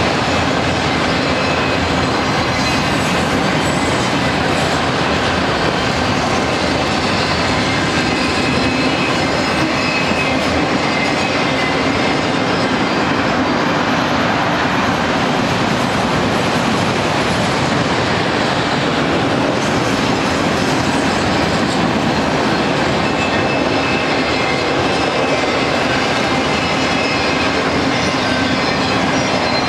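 Freight train of autorack cars rolling past close by: a steady, loud rumble of steel wheels on the rails, with faint high squealing tones from the wheels.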